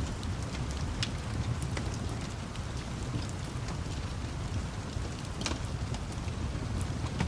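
Wood fire crackling, with scattered sharp pops (the strongest about a second in and about five and a half seconds in), over a steady hiss of rain and a continuous low rumble.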